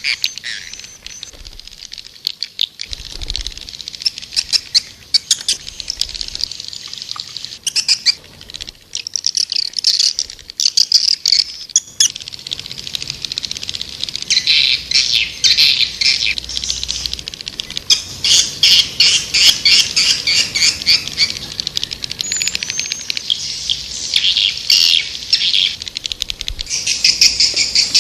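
White-nest (edible-nest) swiftlet calls: dense, rapid chirping and twittering trills in quick runs, growing busier partway through. It is a swiftlet call sound, the kind played to lure swiftlets to a nest house.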